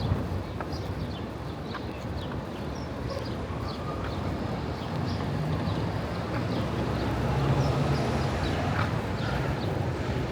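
City street ambience: a steady traffic hum that swells a little in the second half, with many short, scattered high ticks or chirps over it.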